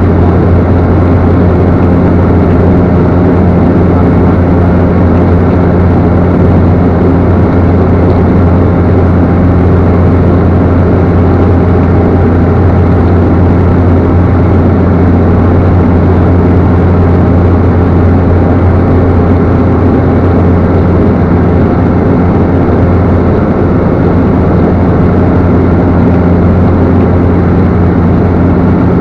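Cessna Caravan's single PT6A turboprop engine and propeller running steadily: a loud, constant, low drone with a few steady tones above it.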